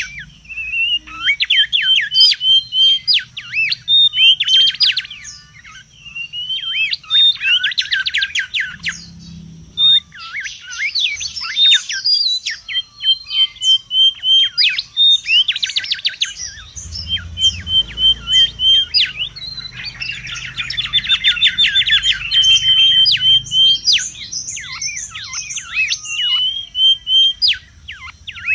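Mangrove whistler calling busily. Runs of short, evenly repeated whistled notes alternate with fast, sweeping chattering phrases, one after another with barely a pause. A thin steady high whine runs underneath.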